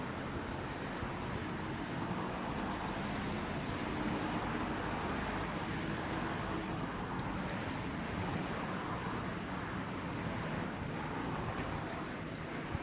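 Steady outdoor background noise of distant road traffic and wind, with a faint low hum in the first half and a couple of small clicks near the end.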